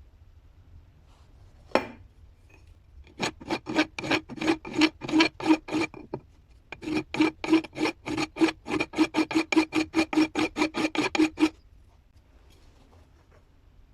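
Rhythmic rasping strokes, about four a second, in two runs with a short pause between, after a single sharp click.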